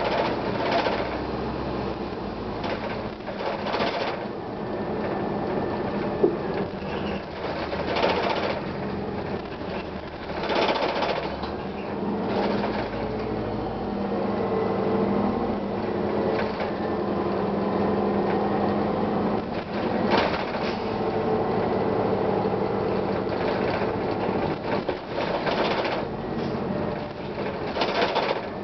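Inside a 1999 Gillig Phantom transit bus under way: its Detroit Diesel Series 50 engine and Allison automatic transmission run steadily, with a low hum that holds for several seconds in the middle. Short hissing bursts recur every few seconds.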